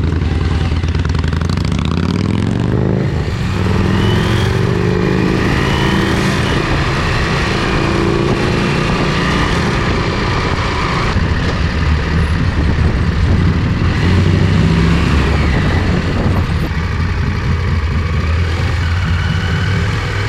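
Motorcycle engine running under way, its pitch rising several times as it accelerates.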